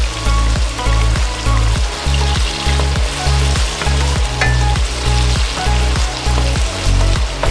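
Tilapia frying with a steady sizzle, under background music with a regular bass beat.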